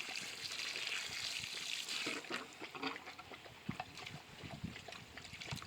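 Garden hose running water into a bucket of dirt, a steady hiss and trickle that thins out about two seconds in, followed by scattered small splashes and drips.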